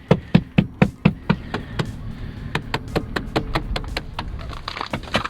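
Flashlight banging on ice on a car door in a run of sharp knocks, about three a second, chipping the ice off to free the iced-shut door.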